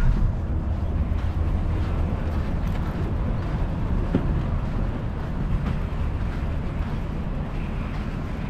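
Steady low rumble of wind buffeting the microphone and road noise while riding a bicycle.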